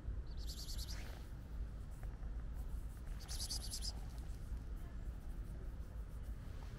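A small bird trilling twice, each a high, rapid run of notes lasting under a second, about three seconds apart, over a steady low rumble.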